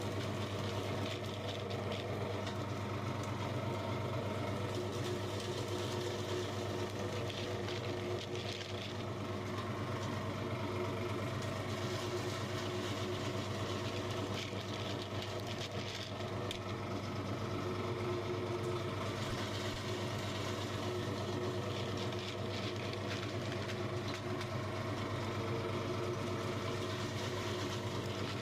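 Electric meat grinder running steadily, its motor humming while the auger crushes hard fruit candy with irregular crunching and crackling over the hum.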